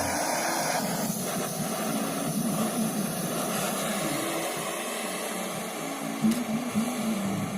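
Steady rushing hiss of a heating tool blowing on an aluminium radiator as it is heated for soldering, with background music under it.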